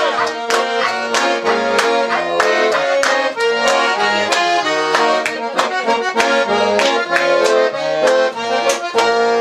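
Accordion playing an instrumental interlude between sung verses: a melody over a steady rhythm of chords.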